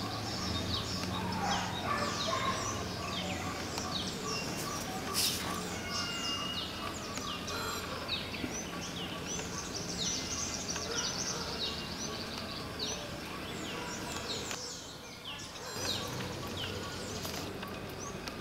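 Many small birds chirping and calling, a busy run of short, quick notes, sometimes several at once, over a steady low hum.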